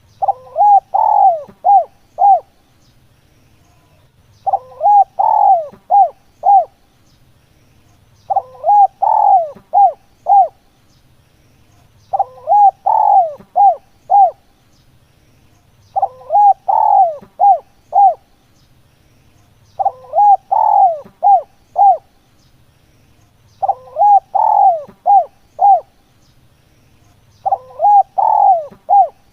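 Spotted dove (tekukur) cooing: the same phrase repeats about every four seconds, eight times over. Each phrase is one long bent coo followed by three short coos.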